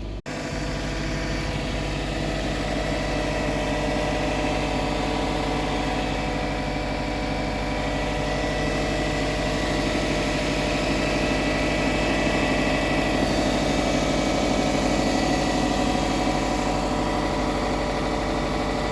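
2004 Subaru Forester STi's turbocharged flat-four idling steadily soon after a cold start, with a faint steady whine from the engine ancillaries that the owner suspects comes from the power steering pump or the alternator.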